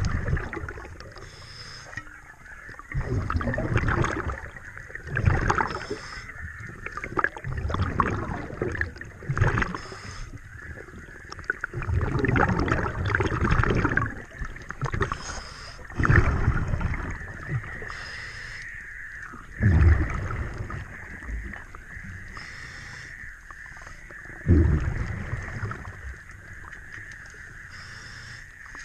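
A scuba diver's regulator breathing underwater: a short hiss on each inhale and a rush of gurgling exhaust bubbles on each exhale, repeating every few seconds.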